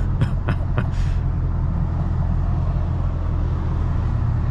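Cammed Acura TL Type-S V6 running steadily, its exhaust giving a deep, even drone. A few sharp clicks sound in the first second.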